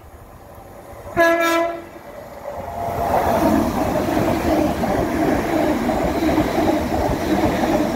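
Great Western Railway Class 802 train sounding one short horn blast about a second in, then running along the platform close by with a loud, steady rumble of wheels and carriages that builds from about three seconds in.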